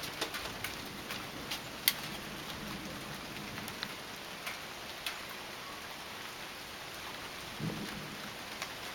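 Light summer rain falling steadily, with individual raindrops striking as scattered sharp ticks, one louder than the rest about two seconds in.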